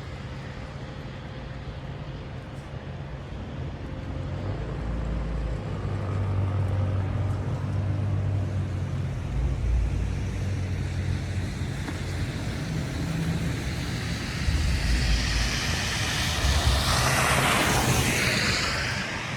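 City street traffic: a low, steady hum of vehicle engines that grows louder a few seconds in. Near the end, a vehicle passes close by with a rising and then falling hiss of tyres.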